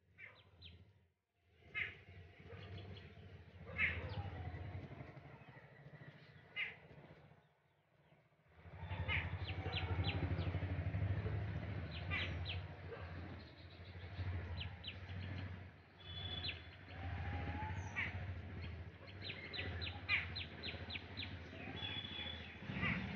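Birds chirping in quick, short notes, with a few falling calls among them, over a steady low rumble. The sound drops out briefly twice, near one second and about eight seconds in.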